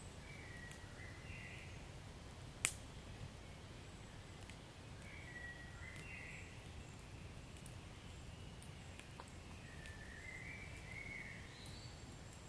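Wood fire burning with a low steady rumble and scattered small crackles, and one sharp loud pop a little over two seconds in. Faint high wavering whistles come three times.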